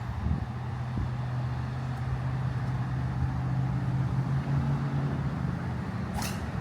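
Steady hum of a golf cart running, over wind noise, with a brief sharp sound about six seconds in.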